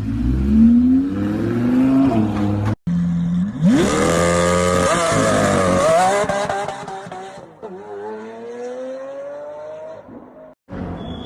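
Sports car engine revving and accelerating hard, its pitch climbing steeply, dropping at a gear change and climbing again, in short clips broken by two abrupt cuts.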